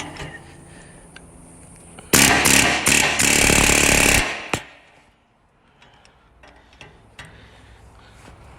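A power tool fitted with a bit runs for about two and a half seconds, in a few short bursts and then held steady, with fainter clicks and handling knocks before and after.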